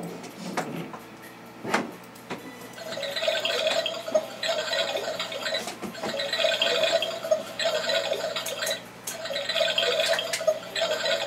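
Toy washing machine, battery-powered, clicked a few times, then running in five stretches of a steady hum and whirr, each about a second or more long with short pauses between.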